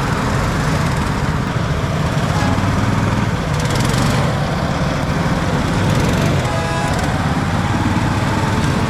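A large engine running steadily close by.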